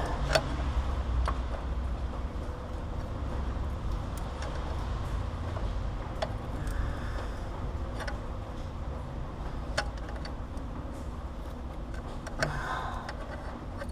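Scattered small metallic clicks and taps from a power steering pressure line fitting being worked by hand into the pump, over a steady low hum.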